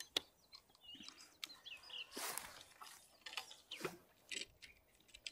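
Faint bird chirps, mixed with a few sharp clicks and brief rustles from handling a spinning rod and reel.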